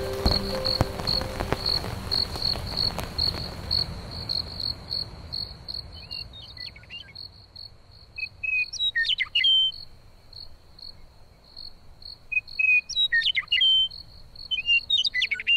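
Crickets chirping steadily, about four chirps a second, with short sweeping bird chirps breaking in four times in the second half, the loudest sounds here. A rushing of rain dies away over the first four seconds.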